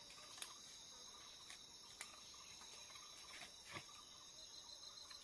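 Faint, steady high-pitched chorus of forest insects, crickets or the like, with a few scattered soft clicks.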